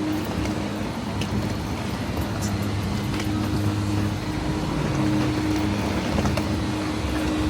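Motor traffic on a city street: a steady vehicle engine hum over road noise.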